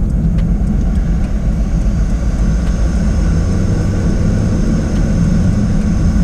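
Cabin noise of a 2024 Jaguar F-Type's 5.0-litre supercharged V8 cruising gently: a steady low engine and road rumble. A faint steady high whine joins about halfway in.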